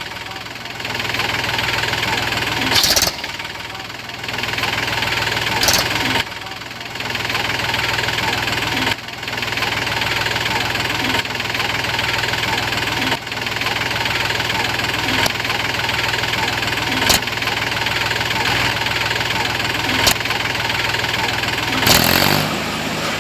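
Small Mahindra tractor engine running steadily, with its level dropping and picking back up every few seconds and a few sharp clicks along the way.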